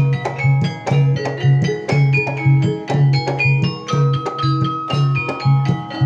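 Javanese gamelan music: a quick run of ringing struck metal notes over a steady, repeating low beat.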